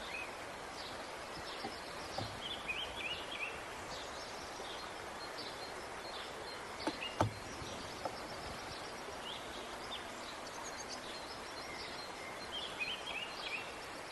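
Outdoor ambience: small birds chirping in short repeated bursts over a steady background hiss, with a sharp click about seven seconds in.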